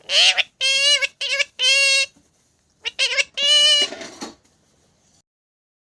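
Pet parrot calling in a run of about six short, pitched calls at a steady pitch, some clipped and some drawn out.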